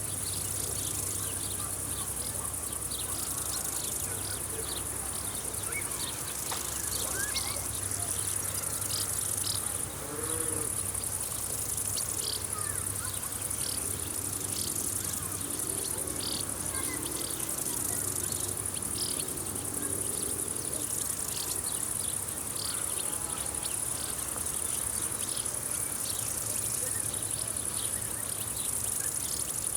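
Summer insect chorus: a steady high-pitched trill of crickets, with many short chirps repeating irregularly over it.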